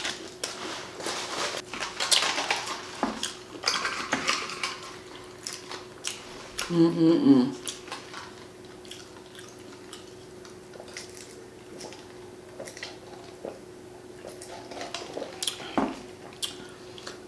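Close-miked eating: chewing and smacking on crispy fried chicken, with clicks and clinks of food and utensils being handled. The sounds are busiest in the first five seconds and sparser afterwards.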